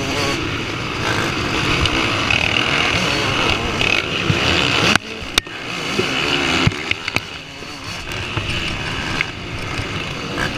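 Motocross motorcycles running on a race track, heard as a dense, noisy engine sound. About five seconds in, the sound drops sharply for a moment with a click, like an edit, then builds back up.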